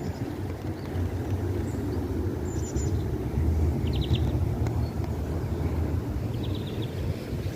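Steady low rumble of wind noise, with small birds giving brief high chirps and short rapid trills four times.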